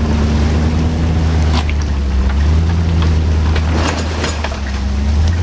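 Tiger Shark 770cc two-stroke jet ski engine running steadily, its low drone holding nearly level, with a few short sharp noises over it.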